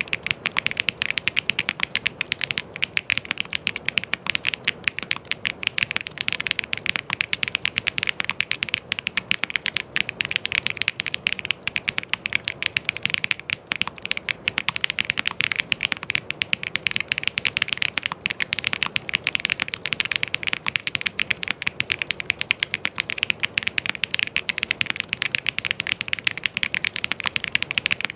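Fast, continuous typing on a mechanical keyboard: a dense, unbroken stream of key clicks.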